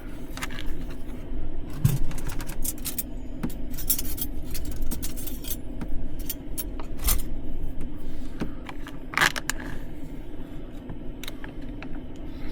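Plastic pouch of pre-cooked beans being opened and handled, a run of sharp crinkles and crackles, densest in the first half and again about nine seconds in, over a steady low hum.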